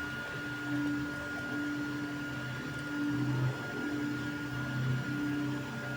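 Creality Ender 3 V3 3D printer printing. Its stepper motors hum in short runs of a second or less, changing pitch from move to move, over a steady high whine.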